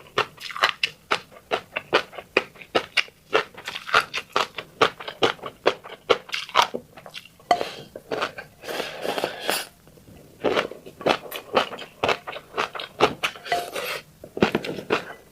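Close-up mouth sounds of a person eating fish roe: a quick, irregular run of wet clicks and pops as the roe is chewed, with a longer rustling smear about eight to ten seconds in.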